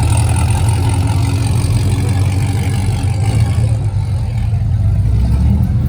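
A car engine rumbling steadily at low revs, without being revved.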